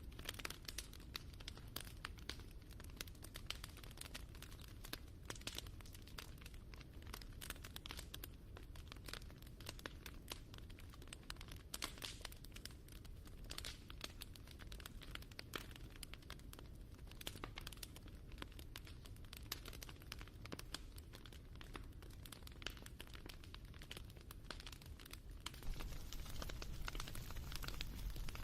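Crackling wood fire: a steady stream of small pops and snaps over a low rumble, growing a little louder near the end.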